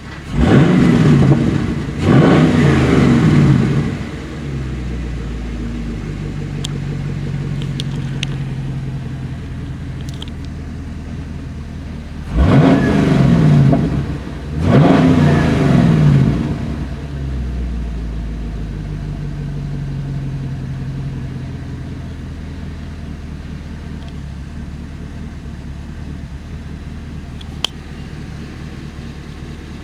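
Chevrolet L99 6.2-litre V8 engine revved twice in quick succession, each time rising in pitch and dropping back to a steady idle. About twelve seconds in it is revved twice more and then idles again.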